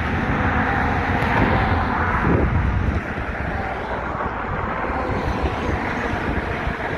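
Wind buffeting the microphone: a loud, steady, gusting rumble.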